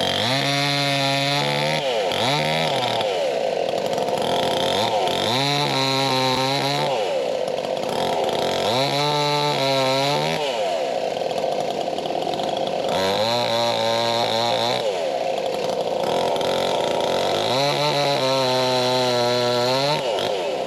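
Two-stroke chainsaw at high revs, making about five or six cuts: in each one the engine pitch drops and holds lower under load, then climbs back as the chain comes free.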